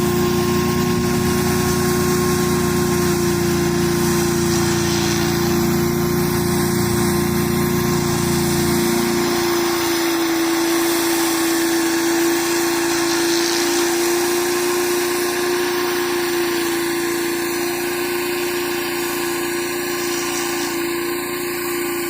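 Gas-engine pressure washer running steadily with high-pressure water spraying onto concrete, a steady engine hum over the hiss of the spray. About nine seconds in the low rumble drops away while the engine and spray carry on.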